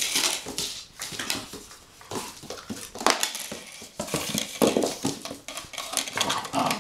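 Puppies scuffling at play, with repeated irregular clattering and scraping on a hard surface.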